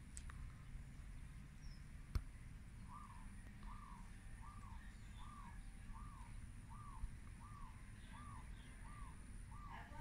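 A bird calling over and over, a short rising-and-falling note about twice a second, starting about three seconds in and keeping an even pace. A sharp click comes a couple of seconds in.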